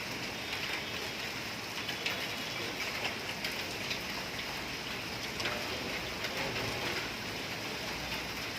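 Rain with hail coming down steadily, an even hiss with many scattered sharp ticks of stones and drops striking hard surfaces.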